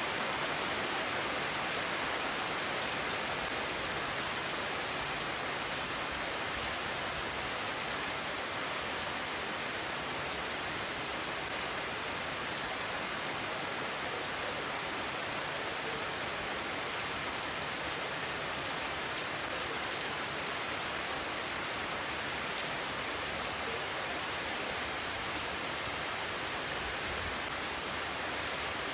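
Steady rain falling and hissing on surfaces, an even, unbroken wash of sound.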